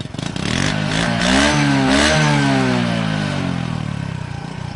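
Motorcycle engine revving: the pitch climbs with a brief dip for about two seconds, then falls away steadily as the throttle comes off.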